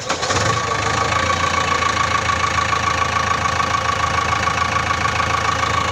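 Small electric motor and gears of a toy dump truck running steadily as it drives, with a steady whine over a low hum.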